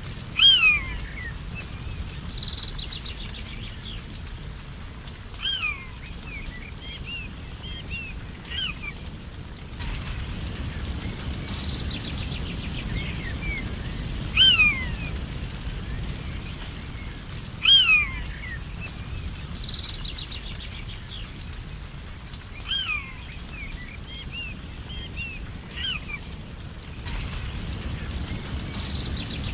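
A bird calling repeatedly in forest: a short, clear call sliding downward in pitch, about every three to five seconds, each often followed by a few softer chirps. Under it runs a steady low outdoor rumble.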